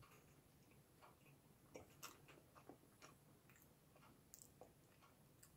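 Near silence with faint, irregular soft clicks of a person chewing a bite of Twinkie sponge cake with cream filling.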